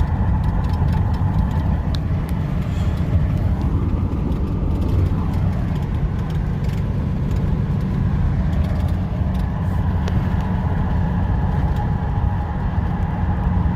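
2019 Ram 5500's Cummins diesel engine running steadily with the full exhaust brake engaged, holding the loaded truck back on a downhill grade, with road noise, heard inside the cab.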